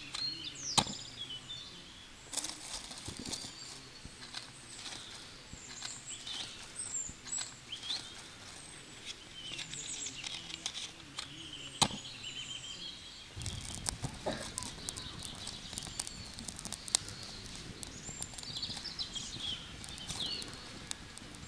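Birds chirping repeatedly over outdoor background noise, with a few sharp clicks or knocks; a low steady rumble comes in about 13 seconds in.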